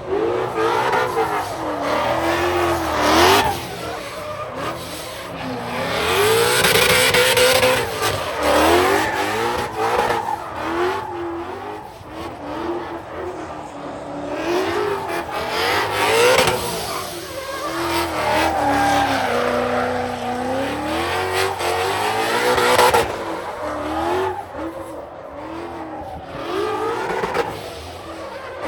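Performance car engines revving up and down over and over, with several loud bursts of tire squeal from spinning, sliding tires, as in drifting and burnouts.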